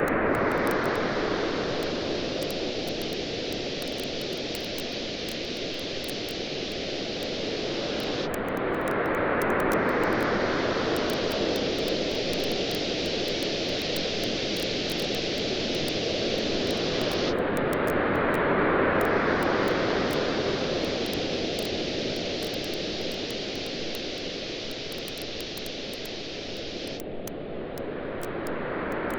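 Ocean waves washing in on a shore, swelling about every nine seconds over a steady hiss, with the fine crackle of a wood campfire throughout.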